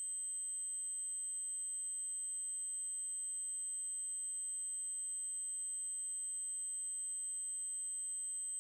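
Synthetic 8192 Hz triangle-wave test tone, a single steady, very high-pitched note held without change.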